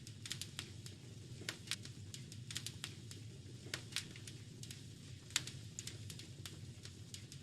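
Wood fire crackling in a fireplace: irregular sharp pops and snaps, one louder pop about five seconds in, over a steady low rumble.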